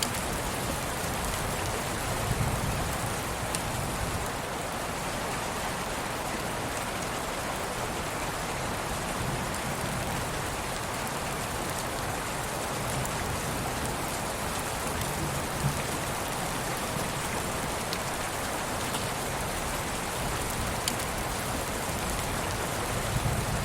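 Steady rain falling, an even hiss with scattered drop ticks and a soft low rumble that swells now and then.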